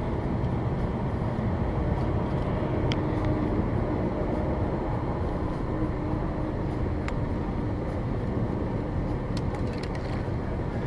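Steady road noise of a car driving at highway speed, heard from inside the cabin, with a few faint clicks.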